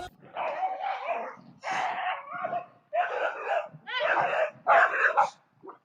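A dog barking over and over, with about one bark a second.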